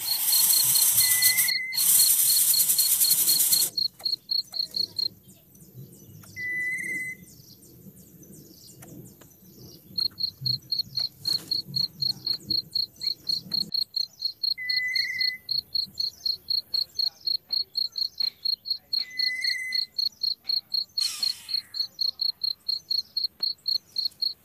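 Cricket-like insect chirping: a high tone in rapid, even pulses, several a second. A loud hiss of noise fills the first few seconds, and a short whistled note sounds four times.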